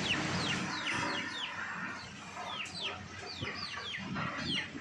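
Birds calling: a steady run of short chirps, each falling in pitch, several a second, over a low background hum.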